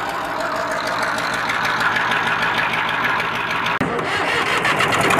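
Small engine of a homemade tractor running steadily, with a fast, even ticking chatter.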